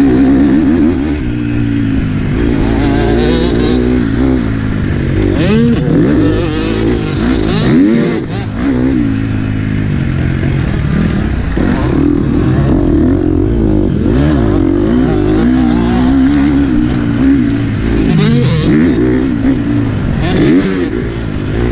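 Motocross bike engine being ridden hard on a dirt track, its pitch rising and falling constantly with the throttle and gear changes.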